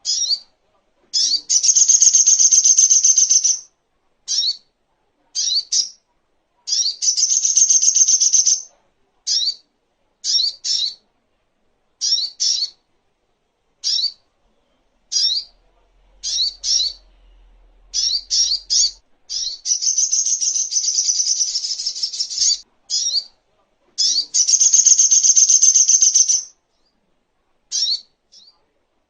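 Sogok ontong (little spiderhunter) song: sharp high chirps, one or two at a time every second or so, alternating with four long, rapid high trills of two to three seconds each.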